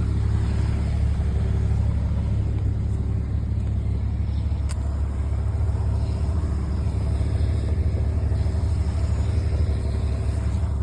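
Steady low rumble of an idling engine, with a constant hum that holds unchanged throughout.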